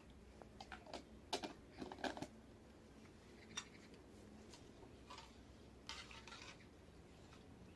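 Cooking utensils and dishes being handled: scattered light clinks and taps, a cluster of them about a second and a half in and another around six seconds in, over a quiet background.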